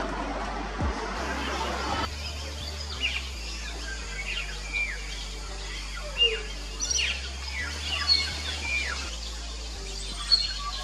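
Small birds giving short, quick-falling chirps, one every second or so, over quiet background music with a steady bass line. A noisy rushing sound fills the first two seconds and cuts off suddenly.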